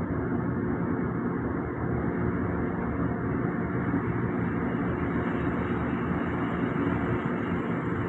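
Cruise boat's engine running with a steady low drone and hum, unchanging throughout.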